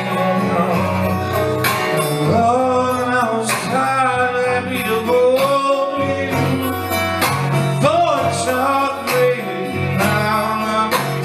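Guitar playing an instrumental blues break, with some notes sliding up in pitch, in a live country-blues performance.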